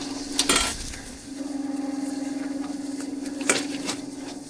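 Metal cooking utensils clanking against a pan or griddle: a sharp double clank about half a second in and two more near the end, over a steady machine hum that briefly drops out about a second in.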